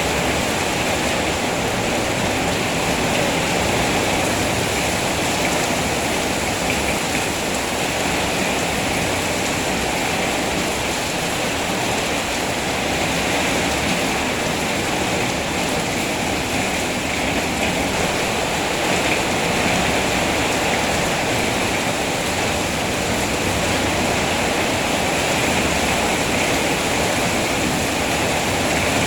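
Steady rain falling, a dense, even hiss of water with no separate drops or events standing out.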